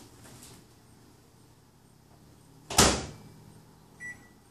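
Microwave oven door shut with a single sharp clack about three seconds in, followed near the end by a short keypad beep as the cooking time is entered.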